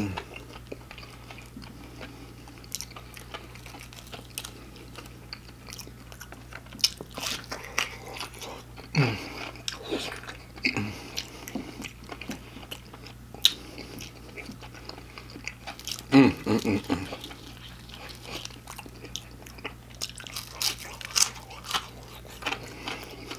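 A person chewing and biting battered fried fish and seafood, with crisp crunches and wet mouth sounds throughout. There are a couple of short low voice sounds about nine seconds in and again around sixteen seconds, over a steady low hum.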